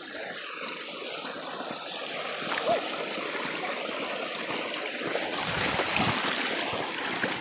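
Stream water running steadily at a waterfall, a continuous rushing that grows slightly louder in the second half.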